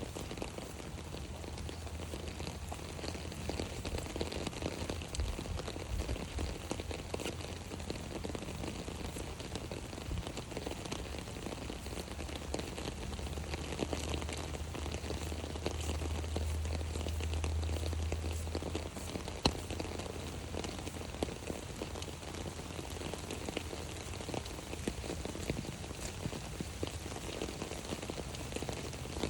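Rain pattering on an umbrella: a dense, steady patter of drops. A low rumble swells between about 13 and 19 seconds in.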